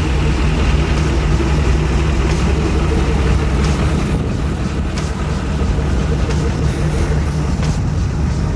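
Vehicle engine running steadily at a constant pitch, with a few faint clicks.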